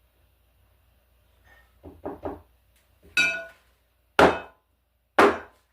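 A series of knocks on a hard surface: three quick light taps about two seconds in, a ringing clink a second later, then two heavy knocks about a second apart.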